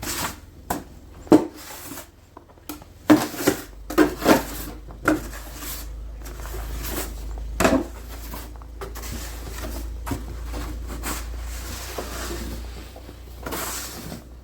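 Kitchen clatter of irregular knocks and clanks, like cupboard doors and pots being handled. A low steady hum comes in about five seconds in and fades near the end.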